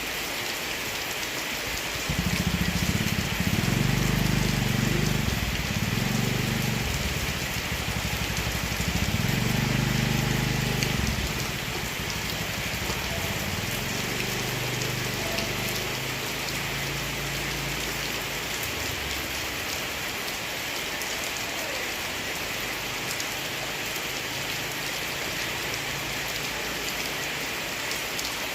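Heavy rain falling steadily. A low rumble comes in about two seconds in, stays loud for several seconds and dies away gradually over the next several.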